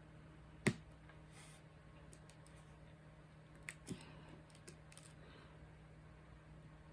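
Faint room tone with a few small handling clicks and knocks, the sharpest a little under a second in and two more close together near the middle.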